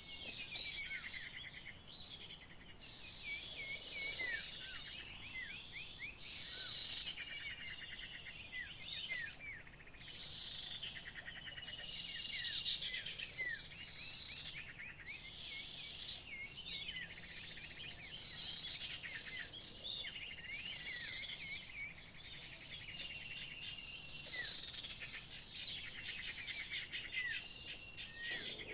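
Small birds chirping and calling busily, many short hooked notes overlapping with continual chattering.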